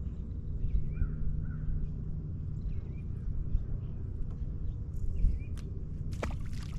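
A bird calling repeatedly in short, hooked calls every second or two, over a steady low rumble. A brief clatter of sharp clicks comes near the end.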